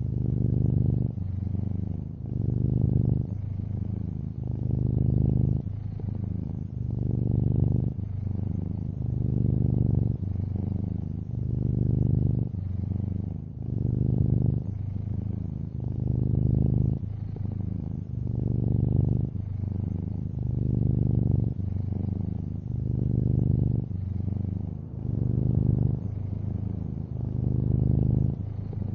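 Long-haired orange tabby cat purring: a low, steady rumble that swells and eases in an even cycle about every second and a half.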